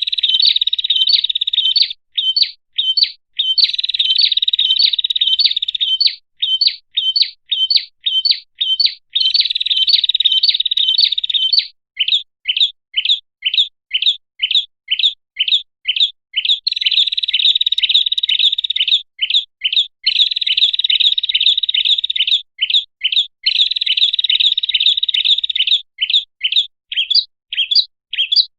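Prenjak (prinia) song used as a bird-trapping lure call: runs of sharp, high chirps, two or three a second, alternating with stretches of fast, continuous trilling.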